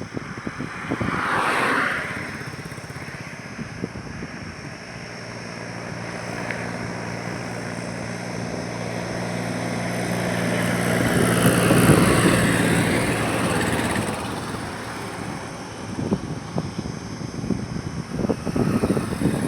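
Highway traffic passing. One vehicle goes by about a second and a half in. Then another approaches with a steady engine hum, growing louder until it passes about twelve seconds in, and fades away.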